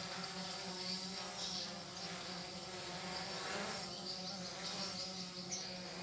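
Small multirotor drone hovering, its propellers giving a steady, unchanging buzz, with a steady high chirring behind it.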